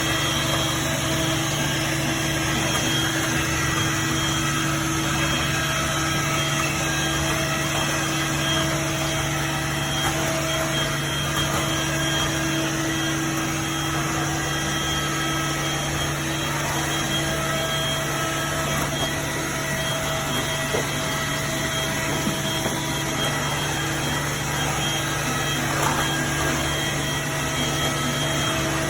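Stick vacuum cleaner running steadily on carpet, its motor giving a constant hum with a steady whine over it.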